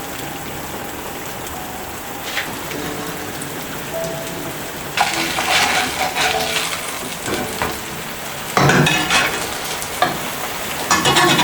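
Food frying in a pan: a steady sizzle that flares into louder crackling about five seconds in, and again near nine and eleven seconds.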